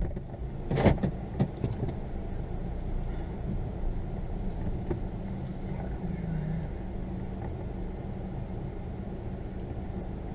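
Small car driving slowly over a rough dirt trail: a few knocks and clunks in the first two seconds as it goes over bumps, then a steady low engine and road rumble.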